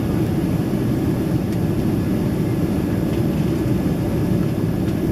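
Steady low rumble of engine and airflow noise inside the cabin of a Boeing 767-300ER in flight.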